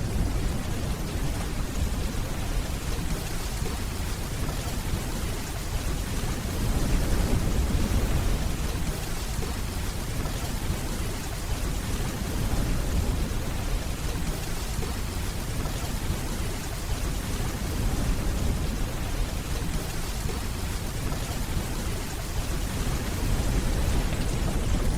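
Steady heavy rainfall with a deep, low rumble of distant thunder beneath it, swelling gently a few times.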